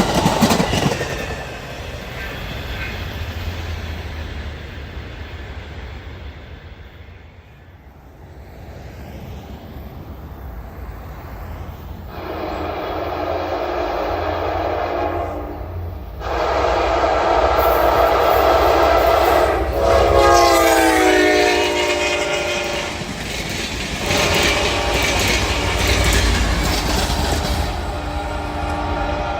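A train goes by and fades. A locomotive horn then sounds two long blasts, its pitch falling as the locomotive passes, followed by the rumble and clatter of the train rolling by.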